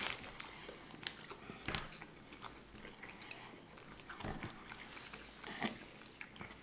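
Two people chewing and biting into sub sandwiches: soft, wet mouth smacks and small clicks at irregular moments.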